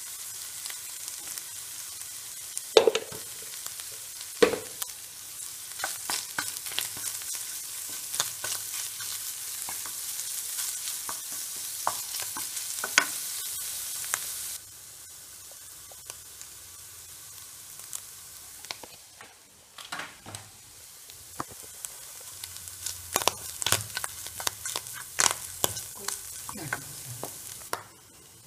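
Canned tuna sizzling as it fries in a non-stick pan, with the hiss of frying running on while a wooden spatula stirs and scrapes through it, making many small clicks and a few sharper knocks, the loudest two a few seconds in. About halfway through the sizzle drops in level and then picks up again.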